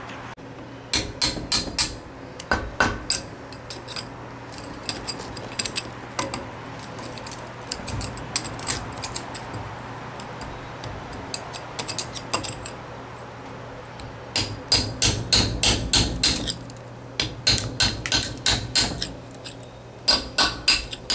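Hammer driving a chisel to chip cement away from around a water fountain's metal pipe: quick runs of sharp blows, several a second, with short pauses between.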